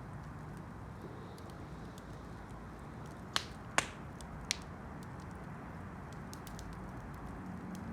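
Wood campfire crackling, with faint small ticks throughout and three sharp pops close together a little past the middle.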